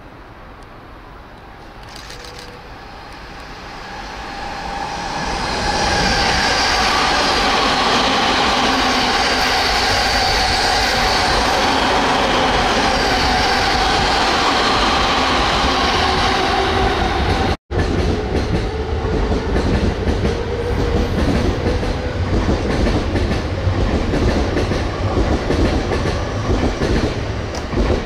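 An E217 series electric train passing through the station without stopping. Its sound grows from faint over the first six seconds to a loud, steady wheel-and-motor noise with a steady whine. It cuts off abruptly about two-thirds of the way in, and another train's loud passing noise follows, rising and falling unevenly.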